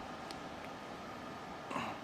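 Steady background hum of machinery or ventilation, with two faint clicks in the first second and a brief short vocal sound from a man near the end.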